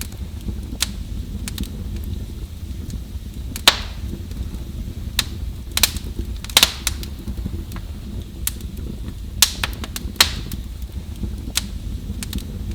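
Fireplace fire crackling: irregular sharp pops and snaps over a steady low rumble, with the loudest pops about a third of the way in, around the middle, and again later on.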